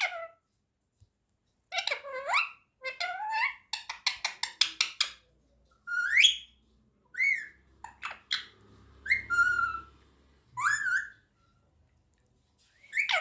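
Indian ringneck parakeet whistling and calling: a string of short gliding whistles with a rapid run of clipped notes about four seconds in.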